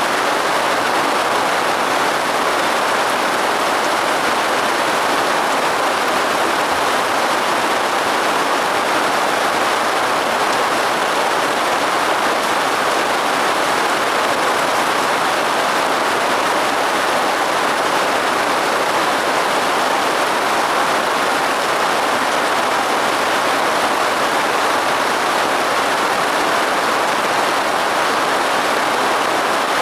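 Gentle rain falling steadily, an even hiss.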